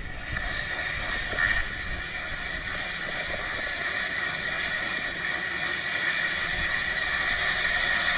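Dirt bike engine running at a steady pitch, with wind noise on the microphone.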